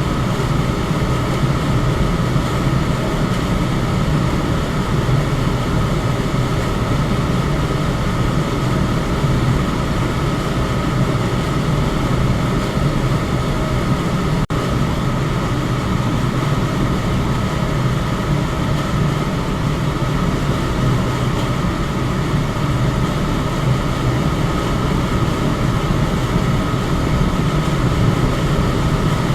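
Electric fan running steadily, a constant airy whoosh over a low motor hum, with a split-second dropout about halfway through.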